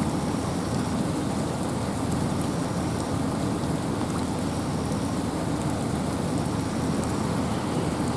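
Steady rain falling in a forest, mixed with wind: a continuous even hiss with a heavier low rush and faint scattered drop ticks.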